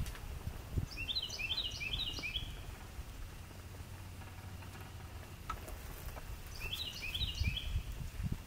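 A small bird singing two short phrases of quick, high notes, one about a second in and one about seven seconds in, over low rumbling and a few soft thumps.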